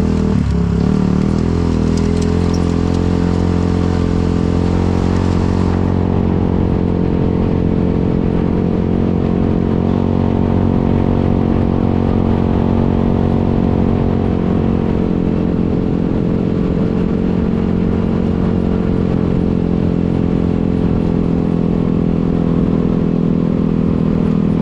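Polaris RZR 200's small single-cylinder engine running steadily at an almost constant pitch, with no revving.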